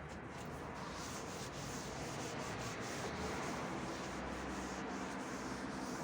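Repeated back-and-forth scrubbing strokes on a surface during cleaning, a steady rubbing noise that swells with each stroke.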